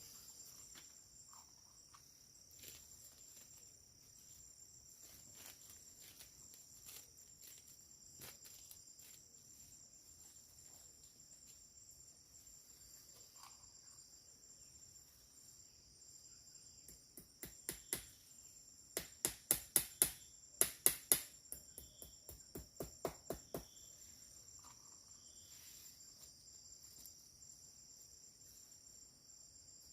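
Steady high chirring of forest insects. About two-thirds of the way through, a quick run of sharp knocks lasting several seconds stands out as the loudest sound.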